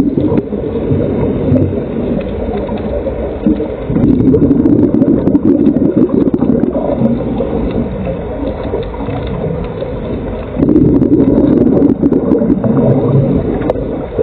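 Muffled underwater sound, with surges of bubbling roughly every six seconds from a scuba diver's exhaled breath leaving the regulator.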